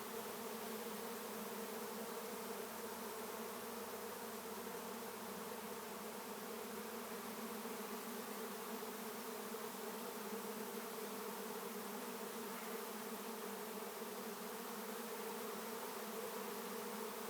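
A swarm of honey bees buzzing in flight, a steady dense hum of hundreds of wings that holds even throughout. The swarm is settling into a capture box.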